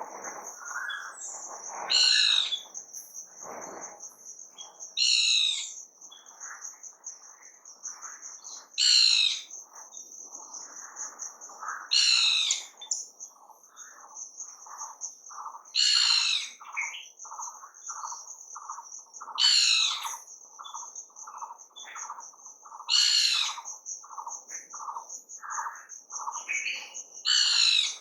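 Outdoor birdsong. One bird repeats a short, loud song phrase about every three to four seconds over a steady, thin, high-pitched tone. Softer, rapid repeated notes from another caller join about halfway in.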